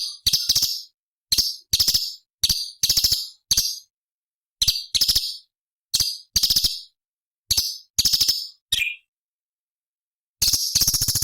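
Orange-bellied leafbird (cucak cungkok) calling in short, harsh chattering bursts of rapid rattled notes, around a dozen of them with pauses between. One brief note just before the longer pause slides down in pitch.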